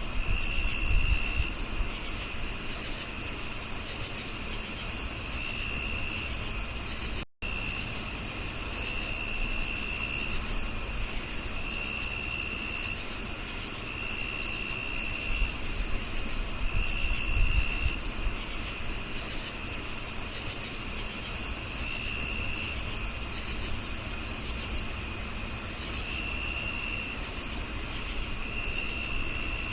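A chorus of crickets chirping: a steady high trill, a regular chirp about twice a second, and a lower trill in spells of about a second every couple of seconds. The sound cuts out for a split second about seven seconds in, and low rumbles come up twice.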